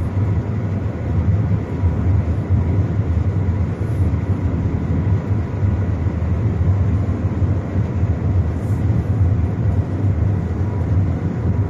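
Steady cabin noise of the Shanghai Maglev train cruising at about 300 km/h: a constant low rumble and rush of air, with a faint thin whine above it.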